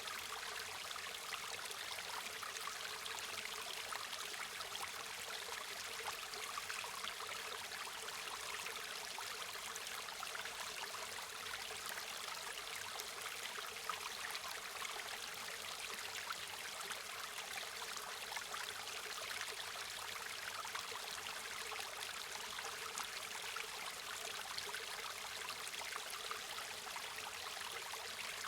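River or stream water flowing, a steady rushing and burbling with fine splashy detail and little low rumble.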